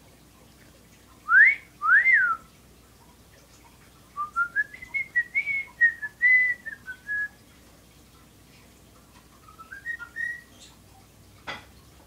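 Pet bird whistling: two loud upward-sweeping whistles, the second rising then falling, followed by a run of short notes that climb and then step back down, and later a shorter rising phrase. A single sharp click near the end.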